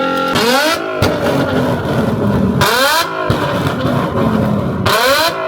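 Car engine revved three times, about two seconds apart, the pitch rising quickly with each rev.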